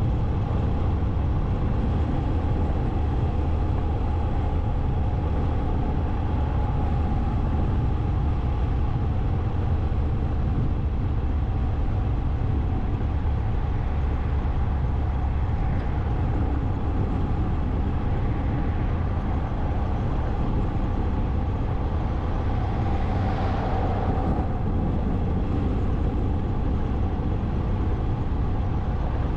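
Motorcycle running at a steady cruising speed, with a brief louder swell about three-quarters of the way through.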